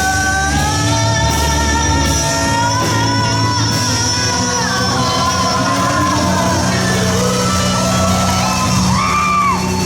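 Live rock band playing a cover song: electric guitar, bass and drums with a singer, held melody notes that slide and bend over a steady low end.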